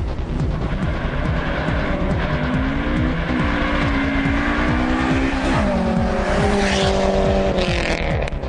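Car engine accelerating hard through the gears: its pitch climbs, drops at a shift about three seconds in, climbs again and drops at a second shift a little past halfway.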